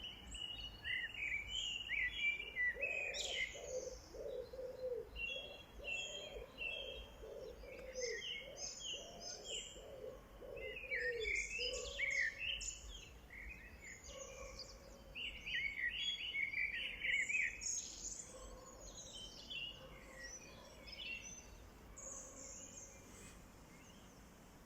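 Several songbirds singing, with busy overlapping chirps and trills. Through the first half there is also a lower call repeated quickly many times.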